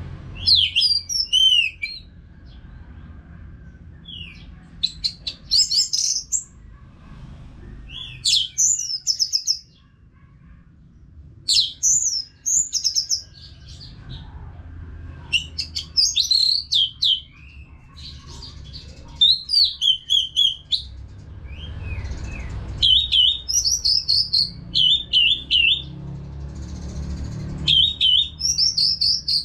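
Orange-headed thrush (anis merah) singing: short, rapid phrases of sweeping whistles and chatters, each about a second long, repeated every two to three seconds with brief pauses between.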